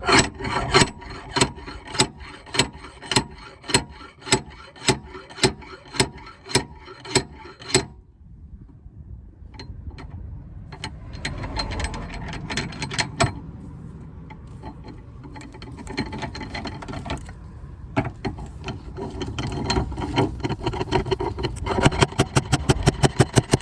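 A hand dent puller's ratchet mechanism being worked, clicking about twice a second for the first eight seconds as it draws the dented body panel out. After a quieter stretch of scraping and handling, a quick run of fast clicks comes near the end.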